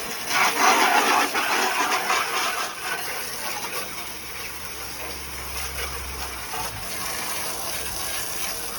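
Water spraying onto the car's bodywork as a steady hiss, loudest in the first two seconds, with a low hum running through the middle.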